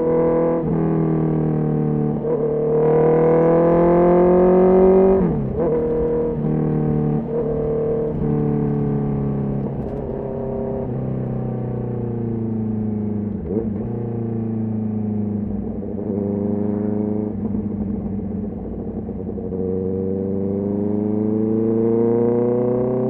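Honda CB650R's inline-four engine running under way. Its pitch climbs as it accelerates, drops sharply about five seconds in at a gear change, sinks slowly through the middle, then climbs again near the end.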